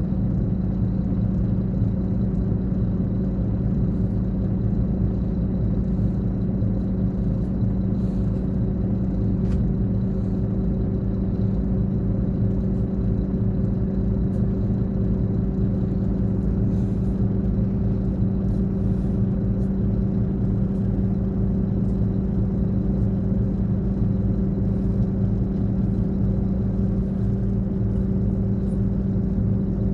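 Scania K420 bus diesel engine running steadily, a constant low drone with an unchanging pitch and level.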